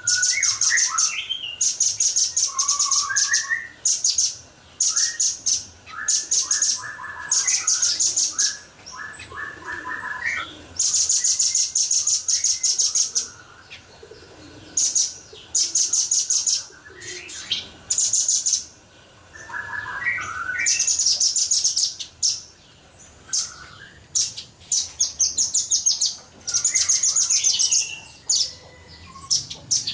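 Velvet-fronted nuthatch (red-billed nuthatch) singing in rapid, dense high-pitched trills, each burst lasting about one to two seconds and repeated over and over, with shorter lower chirps between the bursts.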